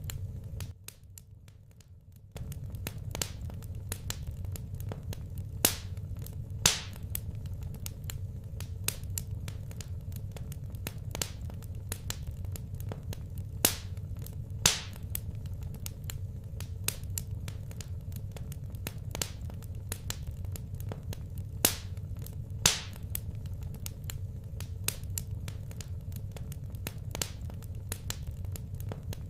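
Wood fire burning in a fireplace: sharp pops and crackles every few seconds over a steady low rumble of the flames.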